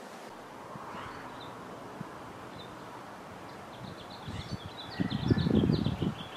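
A bird chirping a quick run of short high notes in the second half. Under it, low rumbling bumps about four to six seconds in are the loudest sound.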